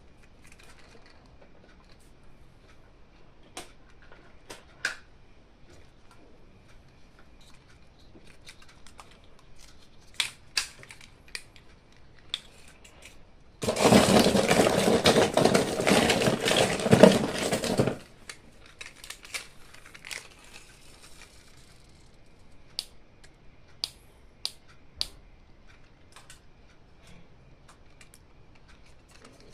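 Toy packaging being handled: scattered light clicks and taps, then about four seconds of loud crinkling and tearing of the packaging around the middle, followed by more light clicks.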